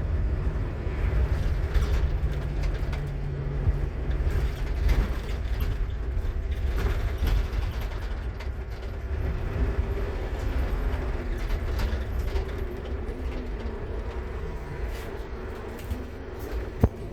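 Scania K230UB bus running, its five-cylinder diesel giving a steady low rumble under the wavering whine of its loud ZF Ecomat automatic gearbox. A sharp click sounds near the end.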